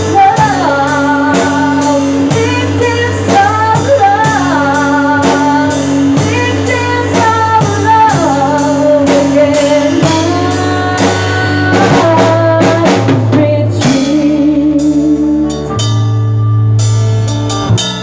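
A live band playing a slow rock ballad: drum kit keeping a steady beat with cymbal strokes, sustained bass notes and guitar, under a bending, wavering melodic lead line. From about two-thirds of the way in the playing thins to held notes as the song winds down.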